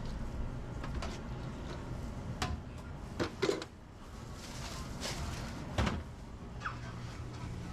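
Restaurant kitchen clatter: scattered knocks and bangs like doors, drawers and utensils, the loudest about three and a half seconds in, over a steady low hum of kitchen equipment.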